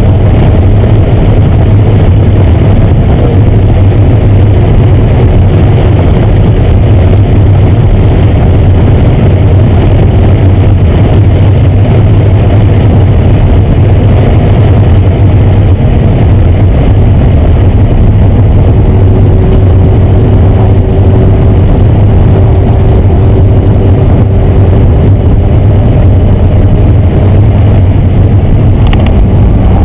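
Car engine held at high revs, around 6,000 rpm, under hard acceleration, heard from inside the cabin. It is loud and steady.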